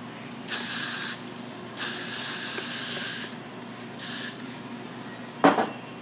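Aerosol spray can sprayed in three hissing bursts, a short one, a longer one of about a second and a half, then a brief one. A single sharp knock follows near the end and is the loudest sound.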